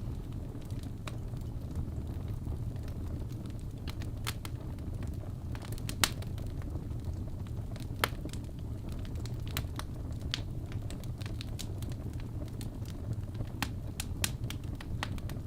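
Wood fire burning in a fireplace: a steady low rumble of flames with irregular sharp crackles and pops from the logs, two of them louder, about six and eight seconds in.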